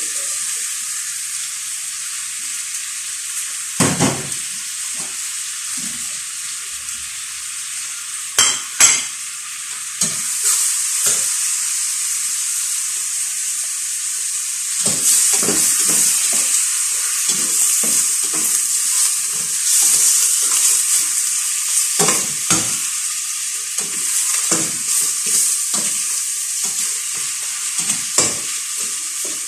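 Food sizzling in a hot pan, a steady frying hiss, while a utensil stirs it and knocks and scrapes against the pan now and then.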